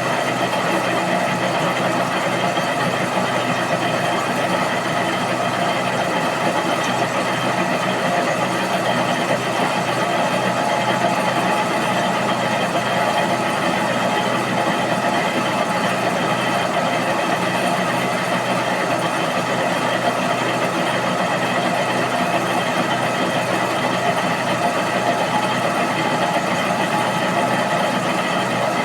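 IZh Jupiter motorcycle's two-stroke twin-cylinder engine idling steadily, evenly and without change in speed.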